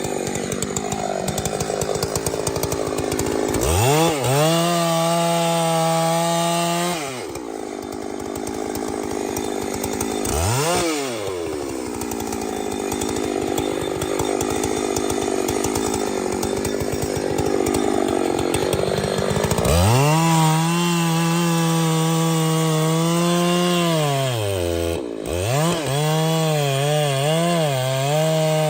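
Two-stroke chainsaw cutting wood, its engine revving up to a high steady whine several times and dropping back. Near the end the pitch wavers as the saw labours in the cut.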